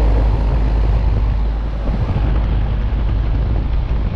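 Payne central air conditioner outdoor unit running, its condenser fan blowing hot air that buffets the microphone as a steady low rumble under a rushing noise.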